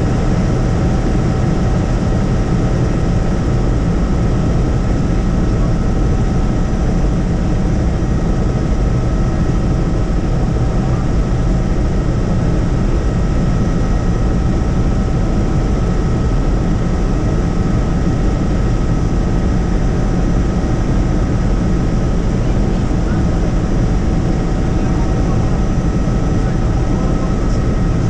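Helicopter in steady flight, heard from inside the cabin: an even engine and rotor noise with two constant tones running over it.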